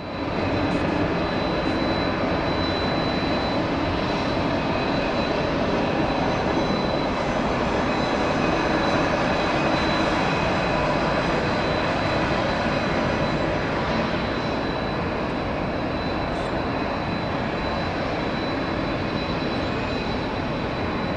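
Jet airliner engines: a steady rushing noise with a thin high whine held throughout, swelling slightly near the middle and easing a little in the second half.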